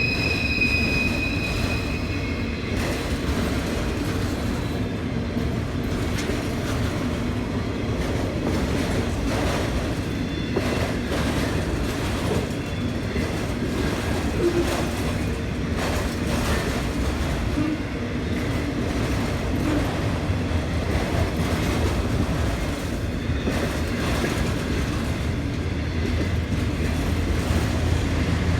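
Freight train of autorack cars rolling past: a steady rumble of steel wheels on rail with irregular clicks over the rail joints. A high wheel squeal sounds at the start and fades out after about two seconds.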